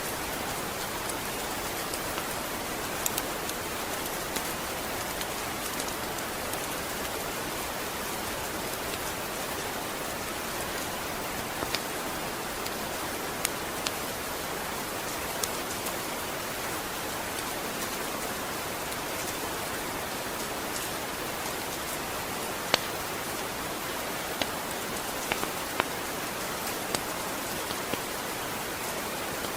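Steady rain falling, an even hiss with scattered sharp ticks here and there.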